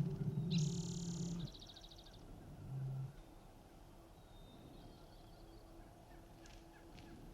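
Wild turkey gobbling, a rapid rattling call of about a second and a half at the start, followed near three seconds by a shorter, lower single note.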